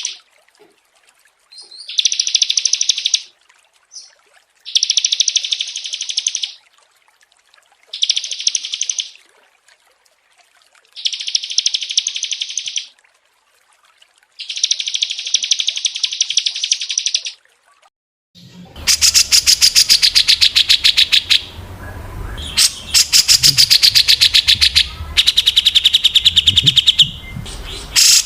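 Recorded songs of small songbirds: rapid chattering trills, each phrase a second or two long, separated by short pauses. About two-thirds of the way through a different recording cuts in, with a bird's fast, loud ticking trill over a low background rumble.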